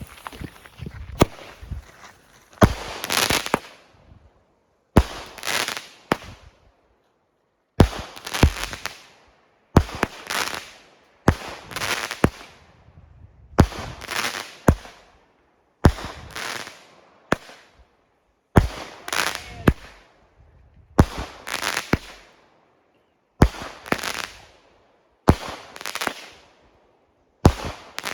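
Consumer fireworks firing a long run of shots. The bangs come mostly in pairs about half a second apart, repeating roughly every two seconds, and each trails off in crackle.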